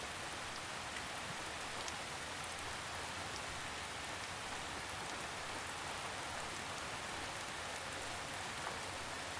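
Steady rainfall with soft droplets pattering on leaves and ground, an even rain ambience with a few faint drips standing out.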